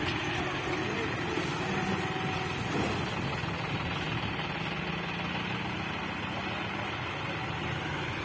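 John Deere tractor's diesel engine running steadily at low revs.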